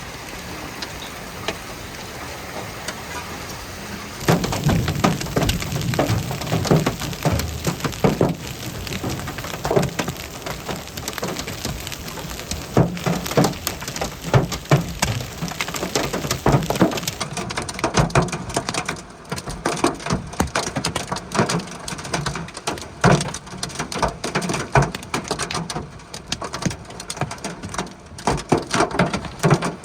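Steady rain, then from about four seconds in a dense, irregular clatter of large hailstones striking hard surfaces, many hits a second, which goes on through the rest of the severe storm.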